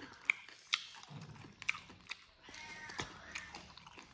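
A person chewing and biting food close to the microphone, with several sharp wet mouth clicks and smacks.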